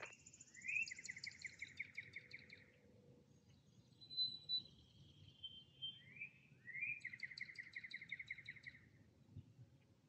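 Songbirds singing faintly: two trilled song phrases, each opening with a quick rising note and running on as a rapid string of notes, with a few clear higher notes in between.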